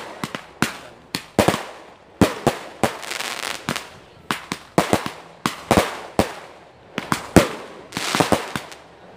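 Aerial fireworks launching and bursting: a run of sharp bangs, about two a second, some followed by a crackling hiss.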